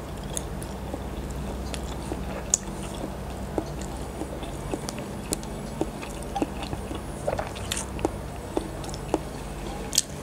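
Close-miked mouth sounds of someone chewing a mouthful of incubated chicken embryo egg with lips closed: soft wet chewing with irregular sharp clicks and smacks, over a steady low hum.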